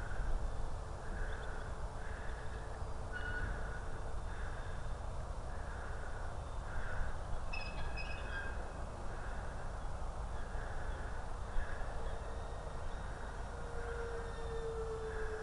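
Wind rumble on the microphone with the faint whine of the model airliner's racing-drone motors and four-blade props in flight. The whine grows stronger and drops slightly in pitch near the end. A few short bird chirps come about halfway through.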